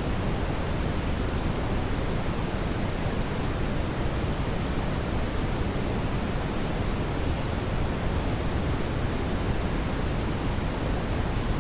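Steady brown noise: an even, unbroken hiss-like rumble weighted toward the low end, with no changes or events.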